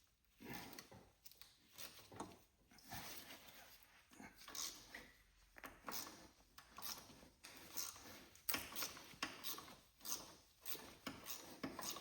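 Faint, irregular clicking, knocking and scraping of hand tools working on metal bolts during engine removal.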